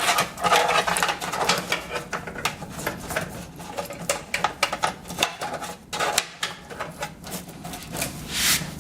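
Rapid, irregular clicks and rattles of SATA cables and plastic connectors being handled and plugged in inside a PC case, with a short rustling scrape near the end.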